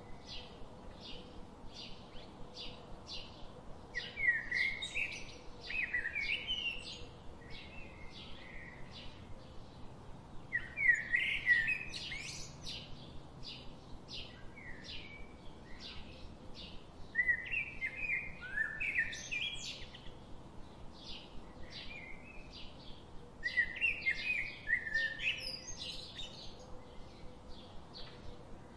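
Birds singing: a steady series of short high chirps about twice a second, with louder warbling song phrases breaking in every few seconds.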